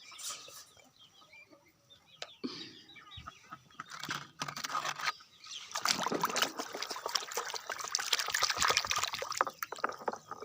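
Water trickling and splashing as a toy is rinsed and scrubbed by hand, starting a few seconds in and getting busier about halfway through.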